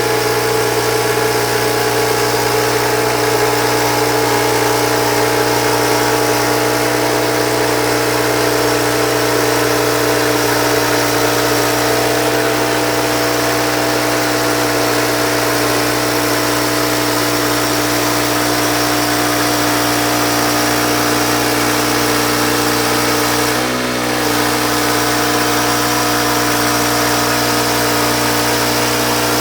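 Engine running steadily at a constant speed, its tone barely changing, with one brief dip near the end.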